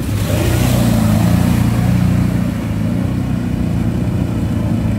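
ATV engine running, briefly louder with the revs shifting about a second in.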